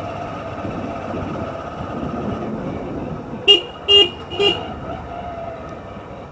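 Steady motorcycle riding noise, with three short horn toots about half a second apart midway through.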